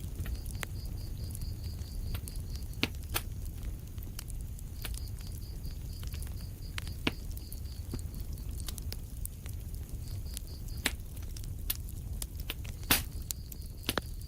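Wood fire crackling in a fireplace: a steady low rumble of burning under scattered sharp pops, the loudest about thirteen seconds in. A faint high pulsing trill comes and goes in several short runs.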